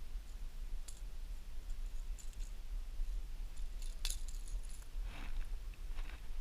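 Light metallic clicking and jingling in scattered bursts, densest in the middle and later part: the rattles and treble hooks of a lipless crankbait (rattle trap) shaking as a caught bass is handled. Under it, a steady low rumble.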